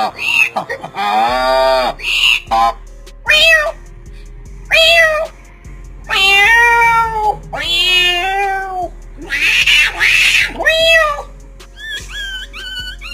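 A series of about seven meow-like cries, each an arching call that rises and falls in pitch, some short and some drawn out. A quieter repeating run of stepped tones comes in near the end.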